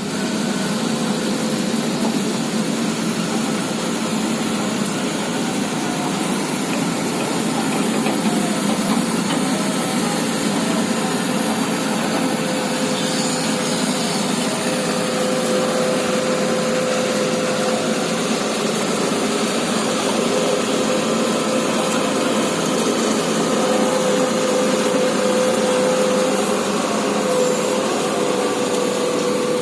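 Sumitomo SH210 hydraulic excavator's diesel engine running steadily, with a thin steady whining tone over it that grows stronger about halfway through.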